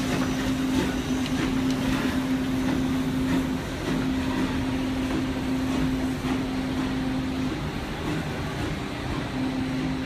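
Narrow-gauge passenger coaches of a steam train rolling slowly past, wheels clicking over the rail joints. A steady low hum runs beneath and drops out a few times.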